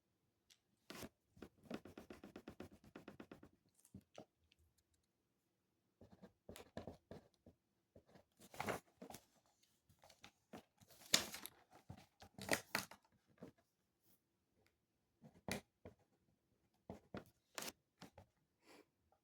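Faint rustling and crackling handling noises with scattered small clicks, densest in a rapid crackling run about two seconds in and again in louder rustles in the second half.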